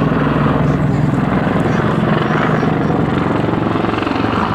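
Boeing AH-64 Apache attack helicopter in flight, its rotor and engines running loud and steady with a rapid beating from the rotor blades.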